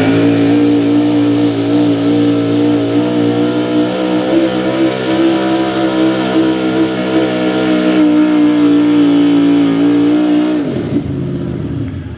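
Small-block V8 engine of a 4x4 pulling truck held at high, nearly steady revs with a slight waver under load during a sled pull. Near the end the throttle comes off and the revs fall away.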